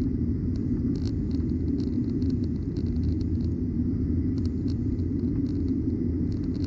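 Steady low rumble of engine and airflow noise inside the cabin of a Boeing 737-900ER in flight, its CFM56-7B turbofans running at power, with faint irregular ticks of cabin rattle.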